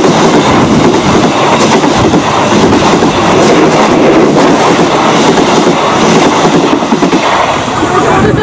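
Passenger train passing at close range over a level crossing, its carriages and wheels running loud and steady on the track.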